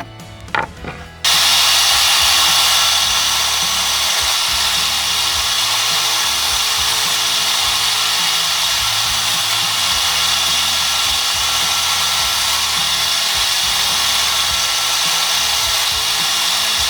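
A few light knocks, then about a second in a power tool starts and runs steadily, making an even, high, hissing grind.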